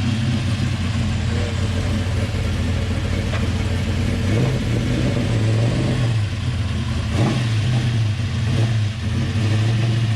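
Modified muscle car engine running close by with a loud, steady idle, revved briefly a few times near the middle.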